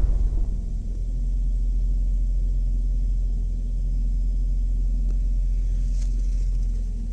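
Steady low rumble of a car engine running at an even speed, with a faint click or two near the end.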